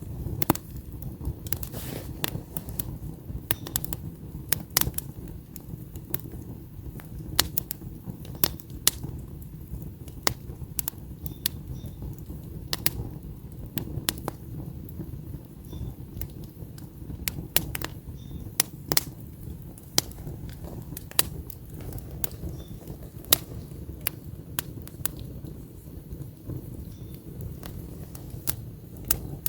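Wood campfire burning: irregular sharp pops and crackles from the burning logs, several a second, over a steady low rumble of the flames.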